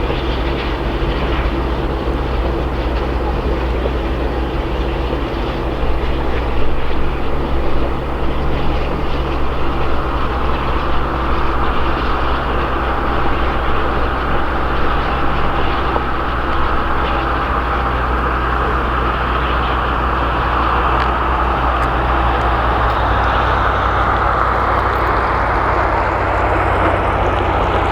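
Steam-hauled passenger train running along the track with a steady low rumble. A higher rushing sound grows stronger about a third of the way in and rises in pitch near the end.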